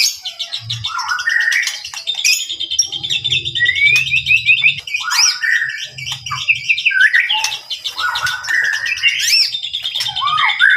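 White-rumped shama singing a long, varied song of rapid trills mixed with whistled notes that glide up and down.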